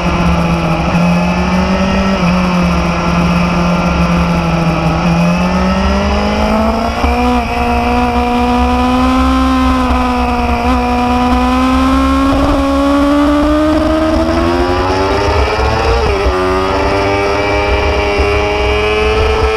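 Motorcycle engine running under way, its pitch climbing gradually as it pulls, with a brief dip and recovery about sixteen seconds in, over a steady low rumble.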